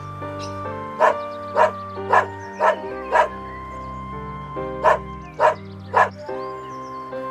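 An animal barking in two runs: five sharp barks about half a second apart, a pause, then three more, over background music.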